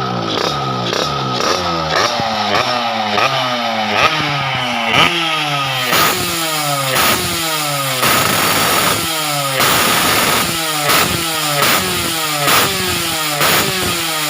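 Motorcycle engine blipped over and over through an SMR Jogja aftermarket exhaust: quick revs that each fall straight back, about one and a half a second, without a break.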